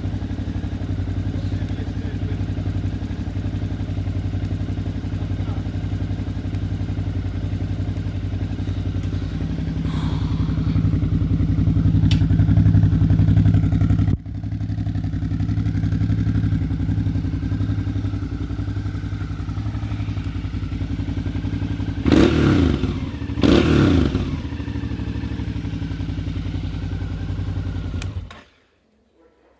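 Suzuki DL650 V-Strom XT's 645 cc V-twin running steadily through its exhaust, with two quick louder surges about three-quarters through. The engine sound cuts off suddenly shortly before the end.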